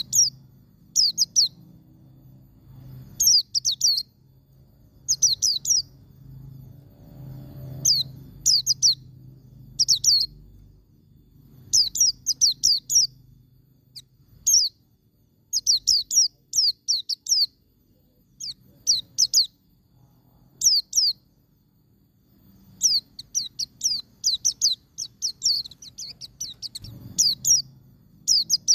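Pleci (white-eye, Zosterops) singing its ngalas song: short clusters of quick, high, downward-slurred chirps repeated every second or two, with a longer rapid run of notes late on.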